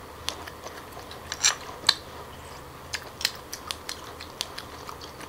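Close-miked chewing of steamed abalone: a dozen or so irregular, short wet clicks and smacks from the mouth.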